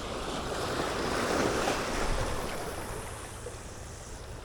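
Sea waves washing in against the shore, a rushing wash that swells to its loudest about a second and a half in and then fades.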